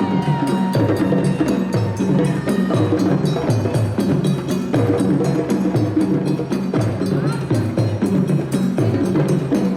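African parade drum ensemble playing a steady, repeating rhythm: hand drums over low bass drums, with a sharp clicking timekeeping part.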